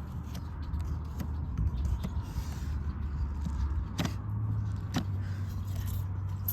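Farrier work on a horse's hoof: light scraping and ticking, with two sharp knocks about four and five seconds in, over a steady low engine-like hum.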